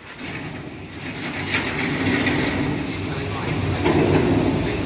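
Rail tank wagons of a freight train rolling slowly past, their wheels running on the track with a steady rumble and a faint high squeal for under a second midway.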